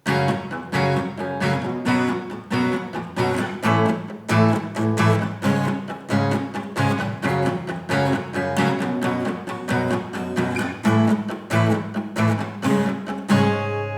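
Acoustic guitar strummed in a steady, driving rhythm of quick down-and-up strokes, chords of a song in F-sharp minor. A chord is left ringing near the end.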